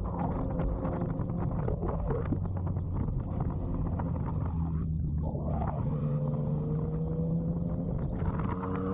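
Motorcycle engine running steadily at low revs, with a faint tone rising slowly late on.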